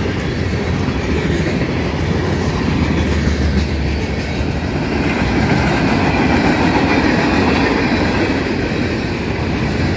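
Freight cars of a mixed freight train, boxcars and covered hoppers, rolling past close by: a steady, loud noise of steel wheels running on the rails.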